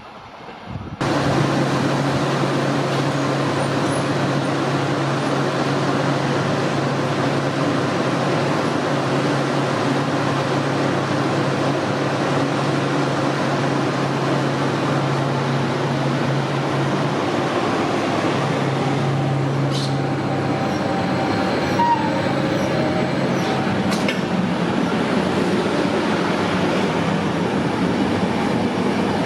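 A train running through the station: a steady, loud rush of wheels on the rails with a low hum underneath. It starts abruptly about a second in, and a few sharp clicks come near the end.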